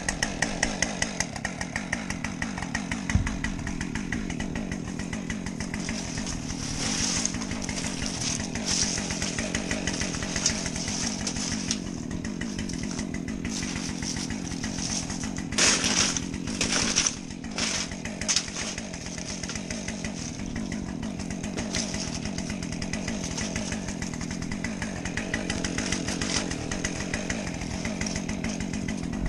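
Small 50cc two-stroke chainsaw idling steadily while it warms up after starting, with a few brief louder bursts about fifteen to eighteen seconds in.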